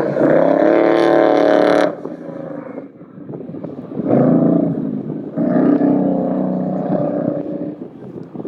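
Truck engine revving in three loud bursts, the first and last about two seconds long and a short one between them that drops in pitch.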